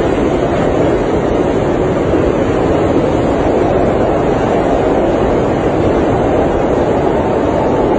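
Blizzard wind blowing steadily against an RV, heard from inside the cabin: an even, unbroken noise with no gusts or knocks.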